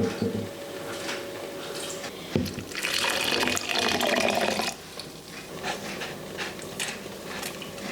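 Kitchen tap running for about two seconds in the middle, among scattered knocks of dishes and utensils.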